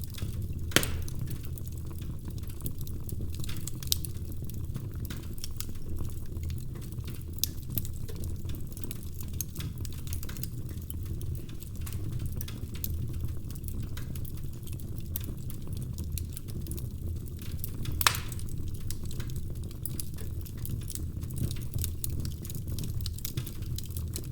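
Wood fire burning in a fireplace: a steady low rumble of flames with constant small crackles and a few sharp log pops, the loudest about a second in and again near the end.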